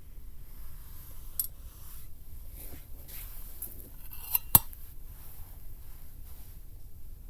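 A few sharp clinks of metal camp tableware and cookware knocking together, the loudest about four and a half seconds in, with faint handling rustles between them.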